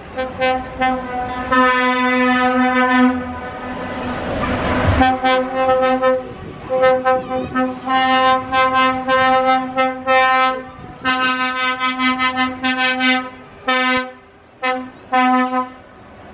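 A vehicle horn sounding one steady pitch, honked over and over in short toots and longer blasts. A brief rushing hiss comes about four seconds in.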